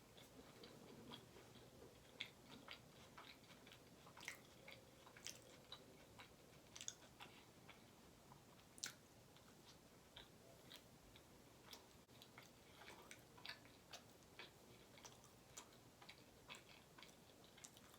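Faint chewing with scattered soft, wet mouth clicks, irregular in timing: a person eating garlic naan with saucy butter chicken.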